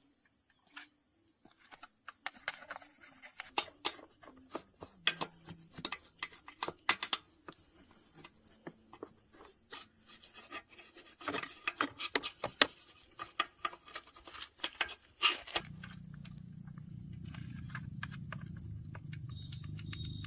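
Irregular light clicks and taps of metal parts and tools being handled during repair work, then a steady low machine hum that starts about three-quarters of the way through and slowly grows louder.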